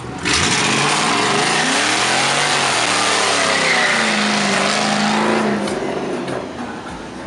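A loud car engine revving hard as the car pulls away, starting suddenly and running with its pitch swinging down and up, then fading away after about five and a half seconds.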